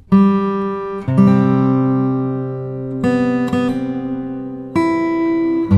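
Background music: acoustic guitar strumming a slow chord progression, each chord struck and left to ring, changing about every second or two.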